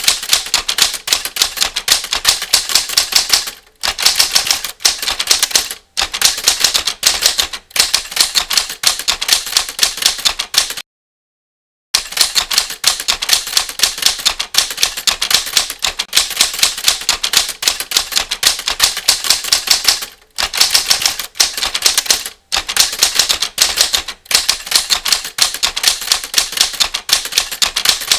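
Typewriter keystrokes: fast, continuous clacking of keys in runs, with brief pauses between runs. It cuts out completely for about a second near the middle.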